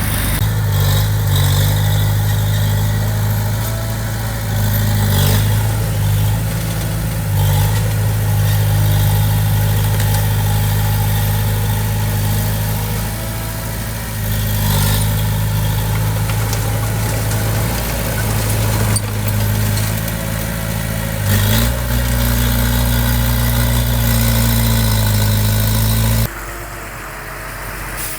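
Heavy-equipment diesel engine running steadily under work. Its pitch steps up a little about three-quarters of the way through, and the sound drops off suddenly near the end.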